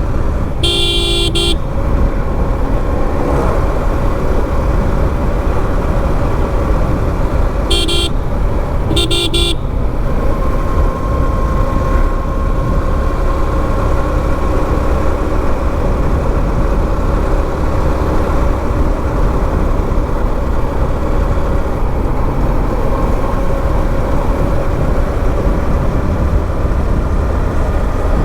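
Steady low rumble of wind and road noise on a moving motorcycle, broken by a vehicle horn honking three times: one blast about a second in, then two short ones about eight and nine seconds in.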